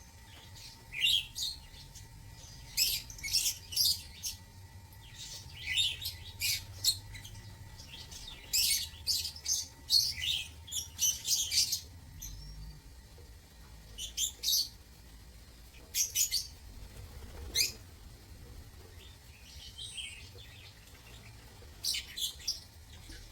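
Lovebirds chirping: many short, shrill calls in irregular clusters, some in quick runs of two or three, with brief pauses between.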